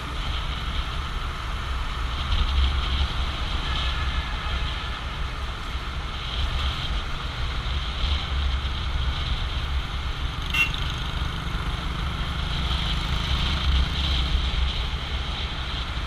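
Steady mechanical vehicle noise, a low rumble with a hiss above it, and a single sharp click about ten and a half seconds in.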